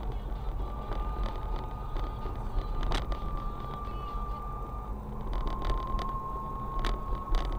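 A thin, steady whistle from under the hood of a Renault Duster 1.6 petrol, over the low rumble of the running car, stepping slightly lower in pitch about five seconds in, with a few sharp clicks. The whistle shows up after long drives, together with hard engagement of 3rd, 4th and reverse gears.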